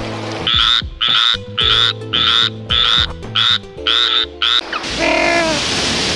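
An animal call repeated about eight times, roughly two a second, then rushing water with a different short call near the end.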